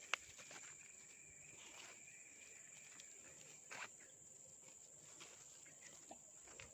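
Faint, steady high-pitched drone of insects such as crickets, with one sharp click just after the start.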